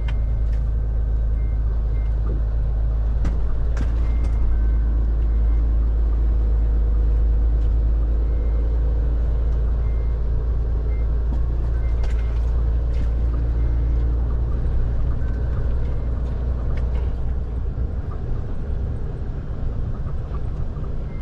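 A JH6 heavy truck's diesel engine pulling steadily over a rough gravel road, heard from inside the cab as a deep, constant rumble. Occasional knocks and rattles from the cab sound over it. The rumble eases in the last few seconds.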